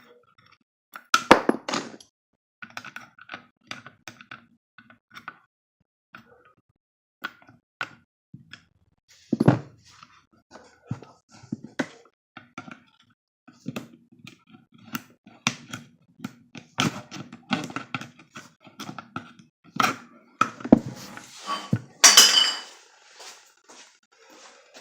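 Irregular clicks, knocks and light clinks of small hard parts and tools being handled and set down, with a few heavier thunks about a second and a half in, near ten seconds and near the end.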